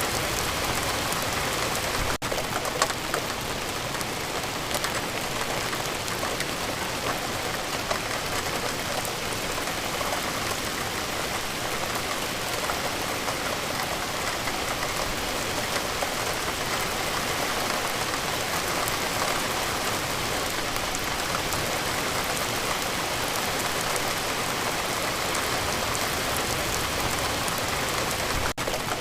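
Steady rainfall, with single drops heard as faint ticks in the rush of the rain. The level dips very briefly twice, about two seconds in and near the end.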